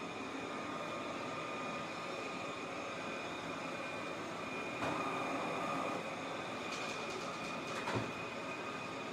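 eufy Omni C20 robot vacuum running: a steady whirring hum with a faint high whine. Brief knocks come about five seconds in and again near eight seconds.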